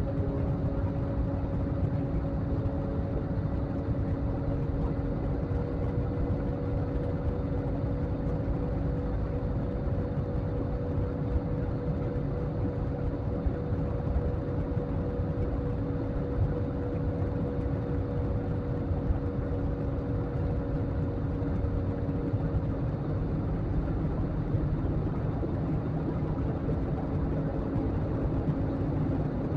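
Steady cabin noise of a jet airliner in flight: a low rushing noise with a few steady engine hums over it.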